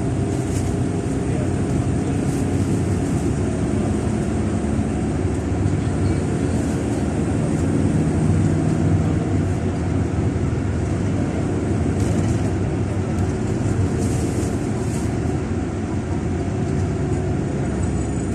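Steady rumbling noise of sandstorm wind, with a faint low hum under it.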